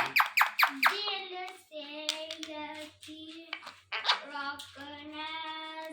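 Ringneck parrot vocalising: a quick run of about five sharp, downward-sweeping calls in the first second, then several long, steady-pitched notes like sung or hummed tones.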